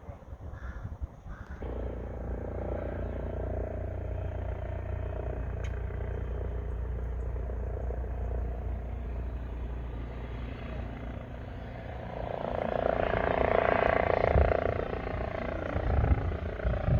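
Aircraft engine running with a steady drone that swells louder about twelve seconds in, with a few low thumps near the end.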